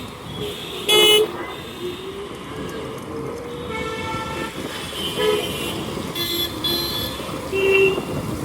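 Vehicle horns toot several times in short blasts over steady road traffic noise. The loudest toot comes about a second in, and more follow through the rest.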